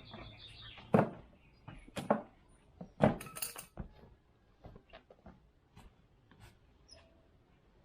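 A few sharp knocks and clicks like objects being handled, the loudest about one, two and three seconds in, followed by fainter scattered ticks.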